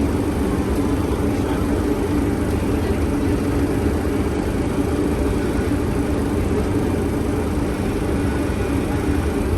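Steady flight-deck noise of an MD-80 on final approach with the landing gear down: airflow and engine noise with a steady low hum, unchanging throughout.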